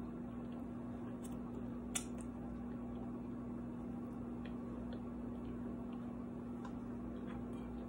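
Quiet chewing and mouth sounds of a person eating, with a few faint scattered clicks, the sharpest about two seconds in, over a steady low hum.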